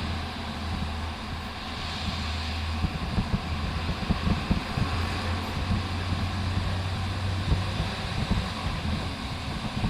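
Honda Hornet 160R's single-cylinder engine running at road speed, with wind rushing over the microphone. From about three seconds in, uneven low thumps come through.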